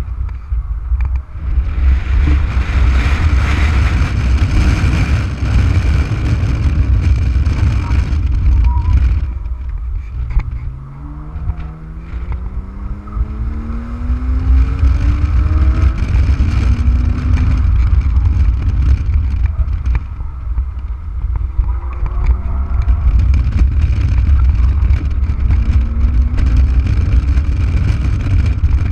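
Porsche Boxster S's 3.2-litre flat-six engine running hard around a track, heard from the open cockpit with heavy wind buffeting on the microphone. About ten seconds in the engine note drops away, then climbs steadily in pitch as the car accelerates, with shorter rises later on.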